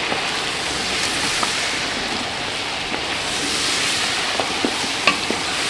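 Mutton frying in ghee with ground spices and a splash of water in a large metal pot, sizzling steadily as it is stirred with a wooden spoon, with a few light spoon knocks.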